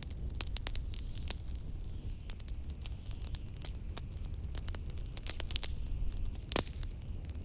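Wood fire in a fireplace crackling with many quick pops, one louder pop near the end, over a low steady rumble of blizzard wind.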